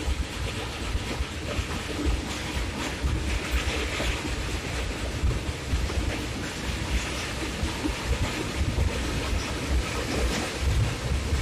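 Passenger train running along the track, a continuous rail noise overlaid by wind buffeting the microphone in uneven low gusts.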